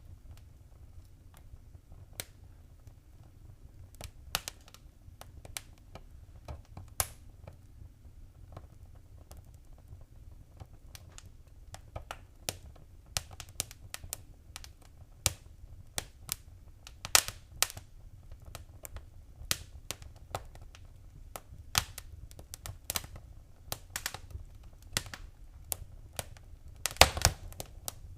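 Fire crackling in a fireplace: irregular sharp pops and snaps over a low steady rumble, the pops coming thicker in the second half, with a quick flurry of them near the end.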